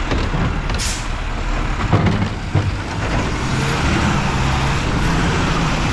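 Mack LR garbage truck with a Labrie body running, with a short burst of air hiss about a second in and a couple of knocks around two seconds in. A faint steady whine sits over the engine in the second half.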